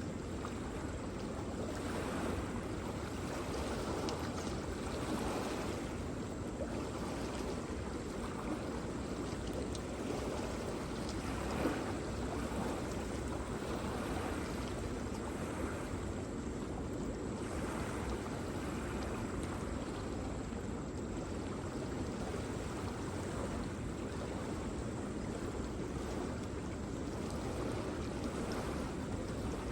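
Waterfall rushing: a steady wash of falling water with gentle swells in level.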